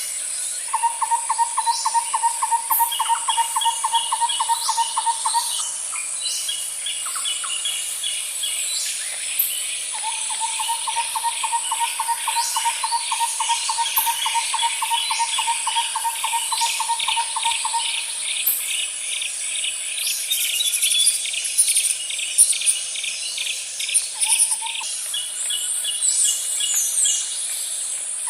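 Night nature ambience. Insects chirp in quick pulsed runs over a steady high insect hiss, while a long, rapid, even low trill comes and goes: once for about five seconds, again for about eight, and briefly near the end.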